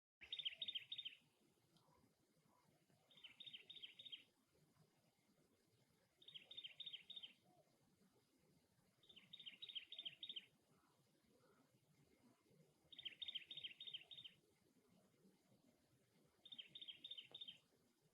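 Cactus wren calling: six short bouts of rapid, scratchy notes, each bout about a second long, repeated every three seconds or so.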